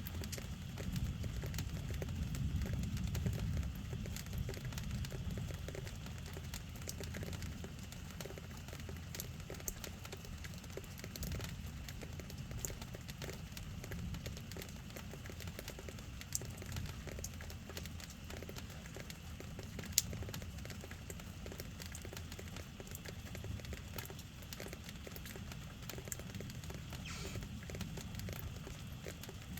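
Steady rain falling, with scattered sharp ticks of drops striking a surface and one louder drip about two-thirds of the way through. Under it runs a low rumble that is strongest in the first few seconds.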